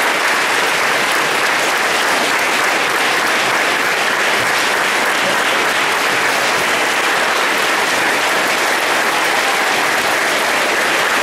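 Large audience applauding steadily in a school gymnasium or auditorium, a long, sustained round of clapping.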